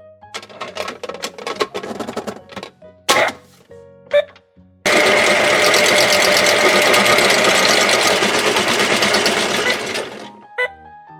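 Toy washing machine being handled with clicks and rattles, then its washing-cycle sound running loud and steady for about five seconds before cutting off.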